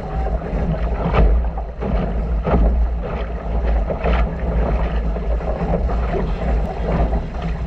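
Sailboat under way: water rushing and slapping against the hull, with several brief splashes, over steady wind rumble on the microphone.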